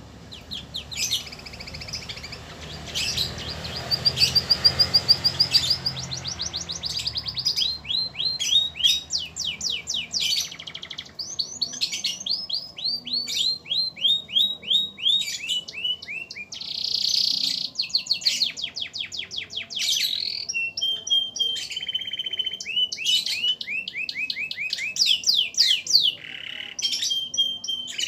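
Domestic canary singing vigorously in a long, unbroken song of fast trills of repeated sweeping notes, with steady held whistles about two-thirds of the way through and again near the end.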